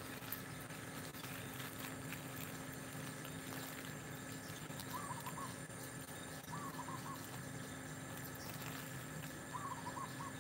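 Faint outdoor ambience with a bird calling a short phrase of a few notes, three times: about five, six and a half, and nine and a half seconds in.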